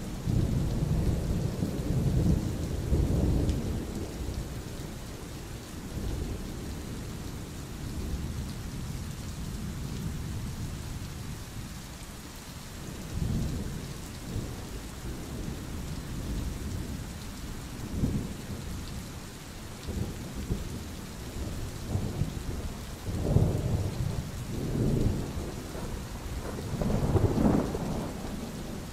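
Steady rain with rolling thunder, the rumbles swelling in several waves: a long one in the first few seconds, shorter ones scattered through the middle, and a cluster near the end.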